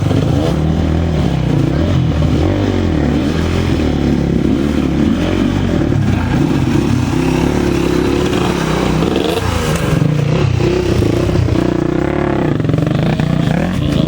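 Several racing motorcycle engines revving and passing, their pitches rising and falling and overlapping.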